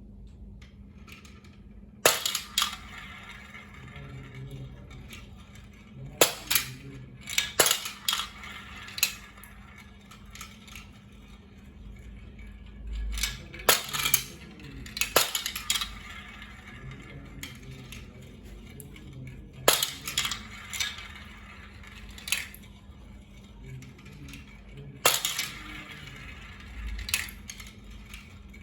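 Marbles clacking down a HABA wooden marble run: clusters of sharp clicks and rattles every few seconds, with quieter stretches between.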